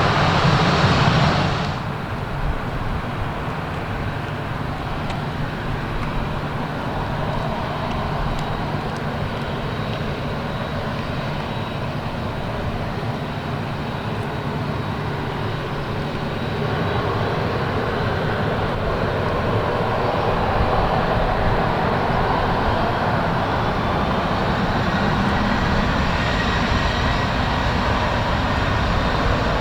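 Boeing 737-400 jet engines (CFM56 turbofans) running, a steady wide noise. It drops suddenly in level about two seconds in, then grows louder again through the second half.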